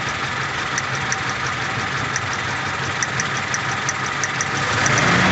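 Toyota Innova's four-cylinder VVT-i gasoline engine idling with a misfire, with a regular high tick about three times a second. It is revved up slightly near the end. The mechanic puts the miss down to a problem in the ignition signal.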